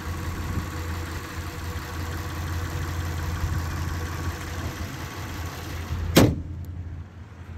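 1990 Acura Legend's V6 engine idling steadily with the hood open. About six seconds in, the hood is slammed shut with one loud bang, and the idle sounds quieter after it.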